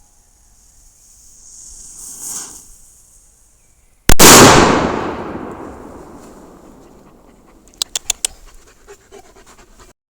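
TB5 firecracker: a fuse hisses for a couple of seconds, then about four seconds in the banger goes off with a single very loud bang that echoes away over about two seconds. A few sharp clicks follow near the end.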